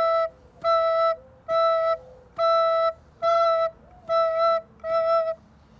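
Recorder playing the note E over and over as short, evenly spaced quarter notes, about seven of them at a little over one a second, all on one steady pitch.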